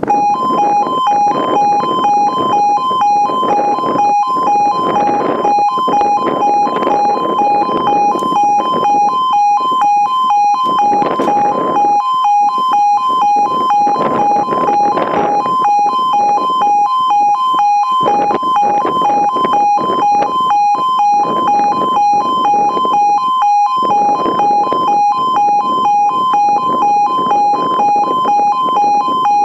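Level crossing warning alarm: a loud two-tone electronic alarm switching on abruptly and pulsing rapidly and evenly, the signal that barriers are about to lower for an approaching train. A rushing noise runs beneath it.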